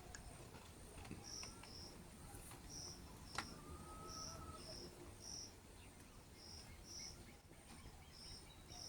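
Faint, high insect chirps: short notes, mostly in pairs, repeating about every second over a faint steady high trill. There is one sharp click about three and a half seconds in.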